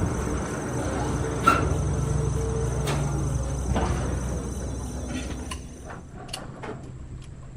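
Insects chirring in a steady high whine over a low engine-like rumble that fades away about five seconds in, with a few sharp clicks and knocks.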